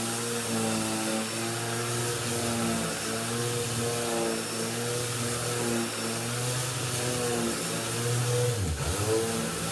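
Electric power-tool motor running steadily with a hum whose pitch wavers. Near the end its pitch drops sharply and comes back up.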